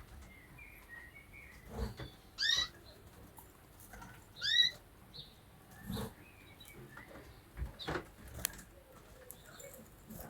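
Caged canaries giving short chirping calls, the two loudest a couple of seconds apart, with a few soft knocks in between.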